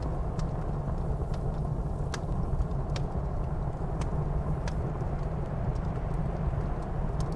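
Wood fire crackling in a fireplace, with scattered sharp pops about once a second, over the steady low rumble of blizzard wind.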